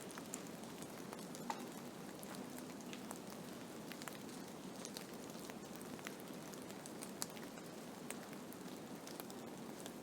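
Blizzard ambience: a steady hiss of wind-driven snow, with many small ticks scattered through it as snow strikes a surface.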